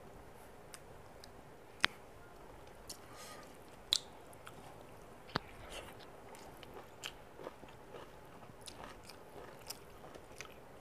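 Faint close-miked eating sounds: a person chewing a mouthful of rice, dal and pickle, with scattered sharp clicks, the loudest about two, four and five and a half seconds in.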